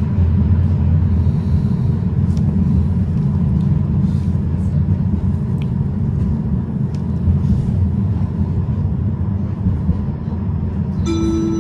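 Tram running between stops, heard from inside the car: a steady low rumble of wheels on rail and running gear, with a few light clicks and rattles. A short tone sounds near the end.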